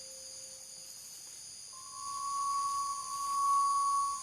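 Night insects chirring steadily in several high bands, with a steady, pure, high tone coming in just under two seconds in and becoming the loudest sound.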